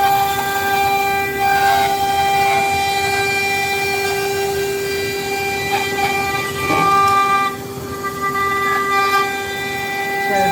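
Five-axis CNC router spindle whining at a steady high pitch while it mills a model. Its overtones shift every second or two as the cutter bites and eases.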